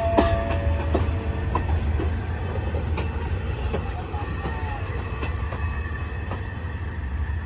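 Diesel train rolling slowly on station tracks: a steady low engine rumble, brief metallic wheel squeals in the first second or so, and scattered clanks from wheels and couplings.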